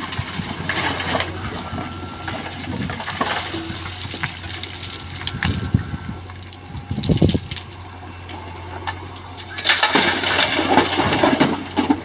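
Diesel engine of heavy machinery running steadily, with scattered knocks and a louder rough, rattling stretch near the end.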